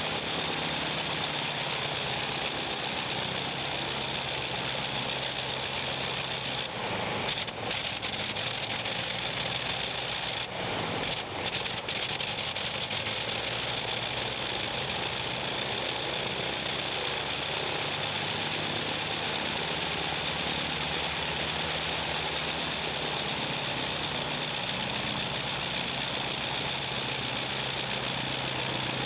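Avro 504K's rotary engine running steadily on a ground run. It dips briefly a few times about a quarter of the way through and again a little later.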